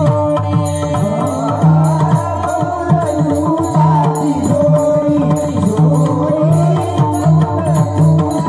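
Marathi kirtan music: a singer's voice carrying the abhang melody over a steady harmonium drone, with hand-drum strokes and evenly repeated small-cymbal clashes keeping the beat.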